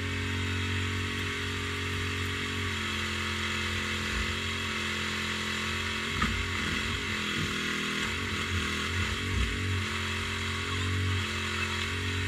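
Mini excavator's diesel engine running steadily while digging, its pitch wavering and dipping briefly several times in the middle as the hydraulics take load.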